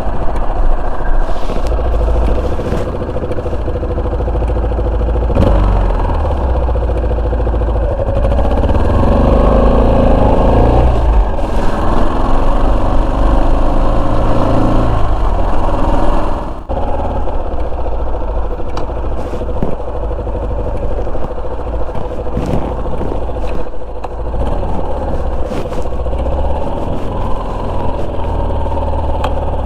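Yamaha Serow 250's single-cylinder engine running under way, the revs swelling upward near the middle and a short sudden drop in level about two thirds of the way through.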